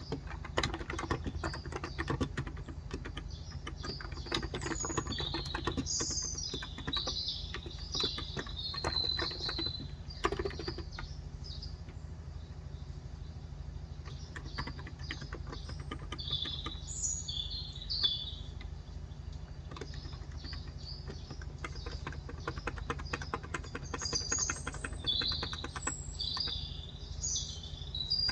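Steady fast typing on a Cox Endeavour electro-capacitive (Topre-style) 35 g tenkeyless keyboard, a dense run of soft key clacks. Small birds chirp over it in clusters through the first ten seconds, again about sixteen seconds in, and near the end.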